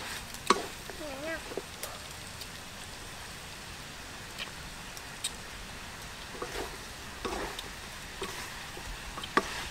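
Food frying in a pan: a steady sizzling hiss with scattered small pops and crackles.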